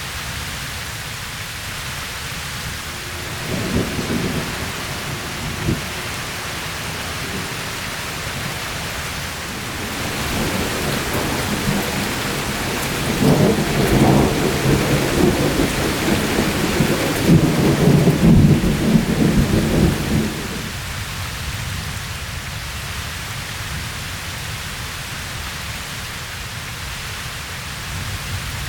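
Steady rain falling, with a roll of thunder that builds about a third of the way in, rumbles loudest for several seconds, then fades. Two short low rumbles come earlier.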